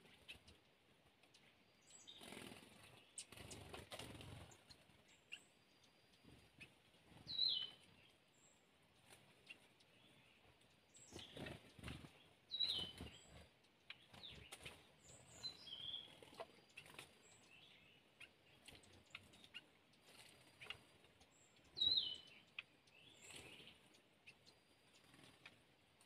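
Small birds at a shallow forest stream: a few short, high calls, each dropping in pitch, between soft splashes and wing flutters as a bird bathes in the water.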